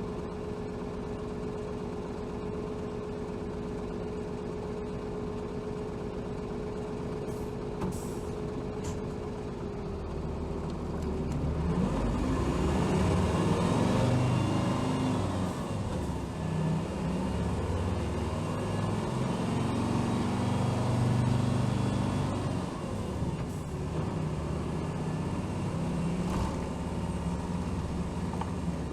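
Engine of a 2007 Hino Rainbow HR city bus heard from inside the cabin. It idles steadily for about the first ten seconds, then the bus pulls away and the engine rises in pitch as it accelerates, with the pitch dropping back twice at gear changes.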